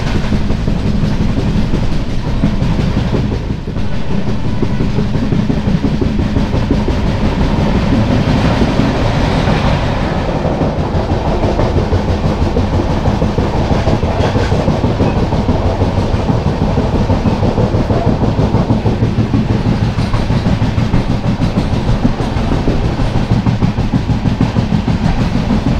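Express passenger train running at speed, cruising at about 65 to 70 km/h: a steady low rumble with a dense, continuous clatter of wheels on the rails.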